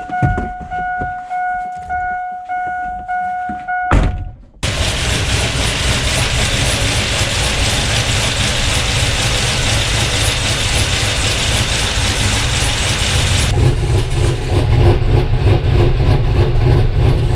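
Chevrolet 5.3 L LS V8 running with a loud, harsh, hissing exhaust sound that comes in suddenly after a knock about four seconds in. The crew takes the harshness for header noise and an exhaust leak. Before that, a steady electronic chime tone sounds over it.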